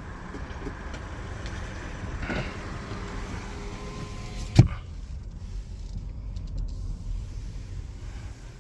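Low, steady rumble inside a Toyota Prius cabin as it moves slowly, with one sharp thump about four and a half seconds in.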